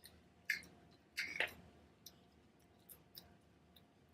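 A few faint clicks and ticks in a quiet room, with two short, slightly louder noises at about half a second and about a second and a half in.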